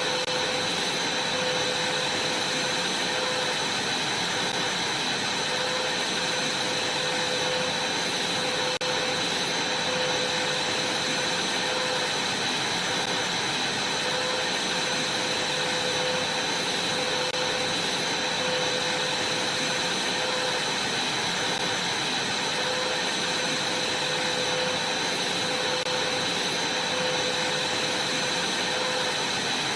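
Vacuum cleaner running steadily, a constant rushing noise with a steady high whine.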